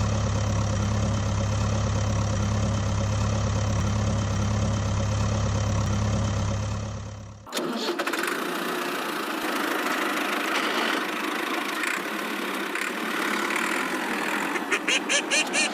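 Engine running with a steady deep hum. About seven and a half seconds in it cuts off abruptly, and a thinner, rattling engine noise without the low hum takes over, pulsing quickly near the end.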